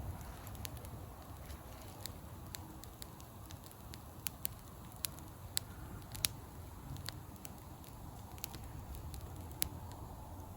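Wood bonfire crackling, with irregular sharp pops, a few of them louder, over a low steady rumble.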